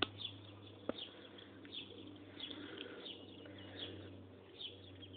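Small birds chirping: short, high, falling notes repeated at irregular intervals, every half second or so. Two sharp clicks come right at the start and about a second in.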